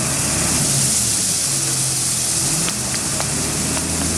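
Tata 1613 tipper lorry's diesel engine running steadily under load in mud, with a strong steady hiss over it and a few faint clicks about midway.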